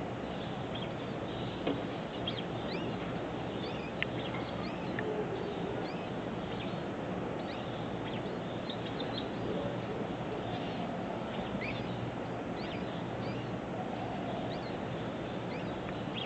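Black bulbuls giving short, high chirping calls scattered throughout, over a steady low background hum and hiss, with a couple of brief clicks.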